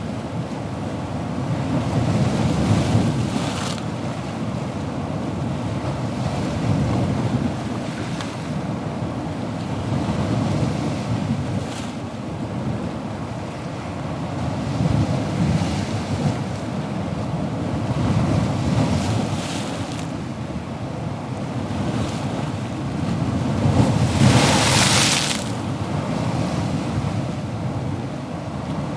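Ocean waves breaking and washing in, a continuous surf rush that swells and eases every few seconds, with one louder hissing wash near the end.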